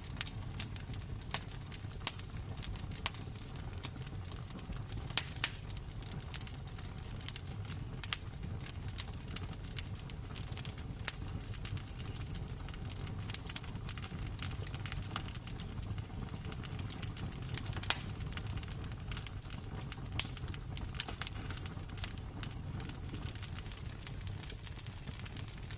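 Wood fire crackling in a fireplace: irregular sharp pops and snaps over a steady low rumble, a few pops standing out louder than the rest.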